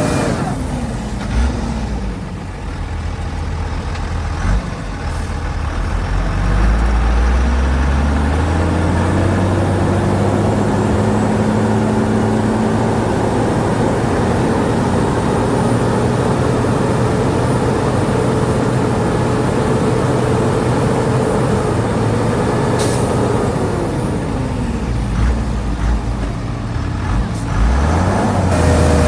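Heavy diesel engine of earthmoving machinery: it revs down at first, climbs to high revs about six seconds in and holds there under load for some fifteen seconds, then drops back and picks up again near the end. A brief sharp click about three quarters of the way through.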